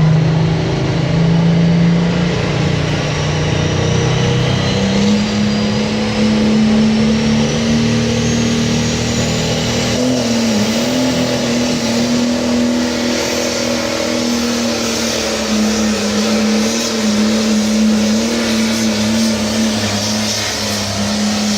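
International 1066 pulling tractor's diesel engine running hard under full load while pulling the sled. Its pitch climbs about four to five seconds in, then holds high with slight wavers. A thin high whine rises over several seconds early in the run.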